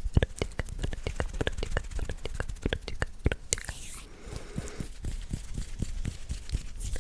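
Close-microphone ASMR sounds: a dense run of soft, crisp clicks and crackles, with a brief breathy hiss about halfway through, after which the clicks thin out and go softer.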